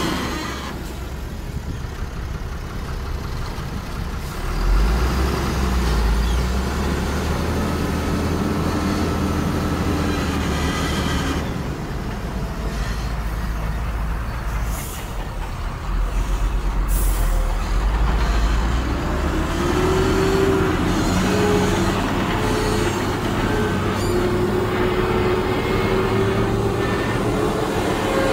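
Diesel heavy machinery running at a sand fill site, its engines rising and falling in pitch and load as the machines work, with a deep rumble that swells twice. Two short hisses come a little after the middle.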